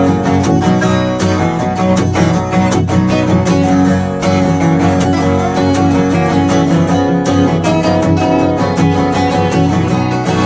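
Live acoustic jam band playing an instrumental break, with strummed guitar to the fore and no singing.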